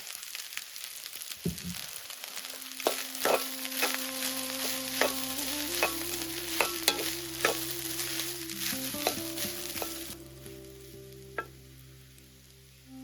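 Food sizzling in a hot pan while it is stirred, with a spatula clicking and scraping against the pan; the sizzling stops about ten seconds in. Soft instrumental music plays underneath from about two seconds in.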